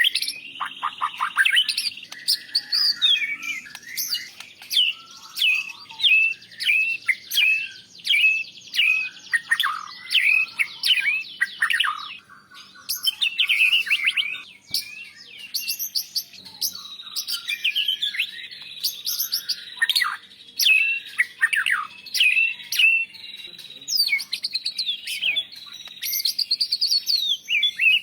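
White-rumped shama (murai batu) singing a long, varied song of rapid sharp chirps and whistled phrases, with short breaks about twelve and fifteen seconds in.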